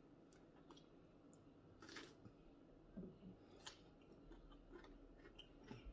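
Near silence with a few faint chewing and mouth clicks, a handful of short soft strokes spread through the quiet.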